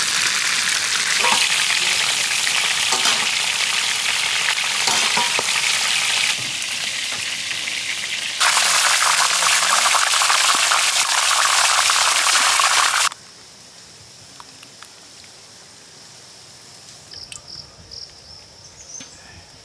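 Spiny lobsters frying in a large pot of bubbling oil: a loud, steady sizzle that steps down in level once and cuts off abruptly about thirteen seconds in, leaving a quiet background.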